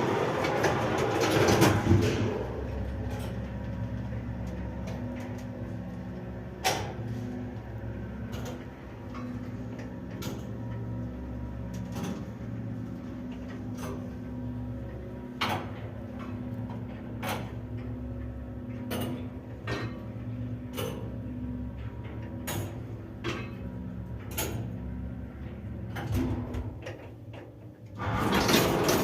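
1983 SamLZ passenger lift running, heard from inside the car: a steady drive-motor hum with sharp clicks about every two seconds. There is a louder burst of noise in the first couple of seconds and again near the end.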